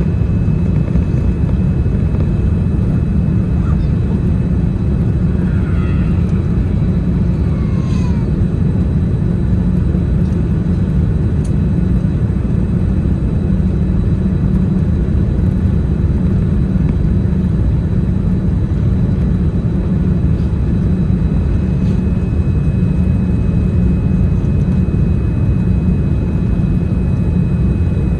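Steady cabin noise inside a Boeing 787-10 airliner: a deep rumble of engines and airflow with a faint, steady high whine over it.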